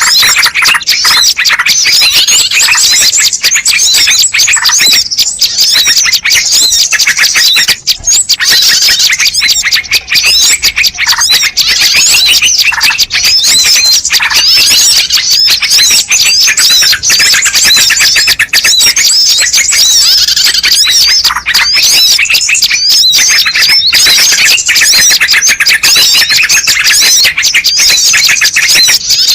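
Bird-lure (pikat) recording of small songbirds chattering: a loud, dense, unbroken run of fast high chirps, twitters and trills.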